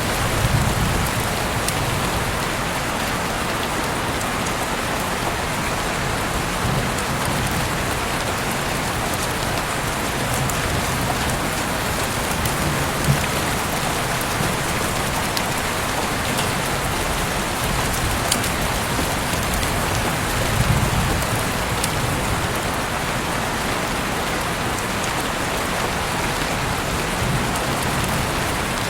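Heavy rain falling steadily, an even hiss with occasional sharper drip ticks and a few brief low rumbles.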